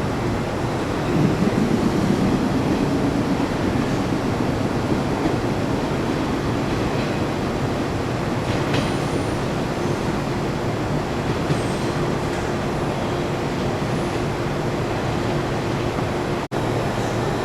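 Train at a station platform: a steady electrical hum over a continuous rumble, a little louder a second or two in. The sound drops out for an instant near the end.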